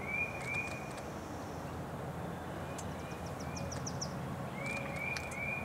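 Bird calls: a short arched note repeated in runs of three at the start and again near the end, with a quick series of about six rising high chirps in the middle, over a steady low background noise.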